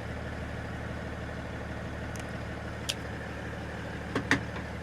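Box truck engine idling steadily, with a few short sharp clicks over it, the loudest two close together near the end.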